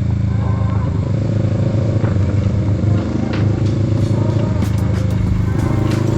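Kawasaki Z650's parallel-twin engine running under way on a ride, its note dipping briefly about three seconds in and changing again near the end.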